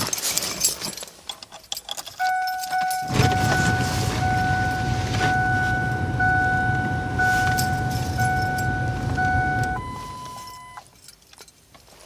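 Keys jangling, then the Ford Explorer's electronic warning chime pulsing about once a second, over a low steady rumble. Near 10 s the chime switches to a different, higher tone for about a second and stops, leaving the cabin quiet before the start.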